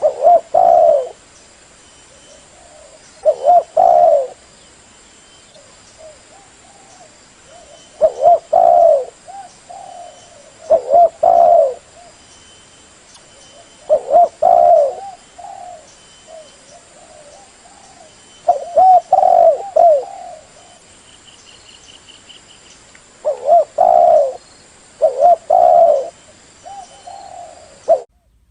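Female spotted dove cooing: a loud coo phrase every three to five seconds, with softer coos in between. The sound cuts off just before the end.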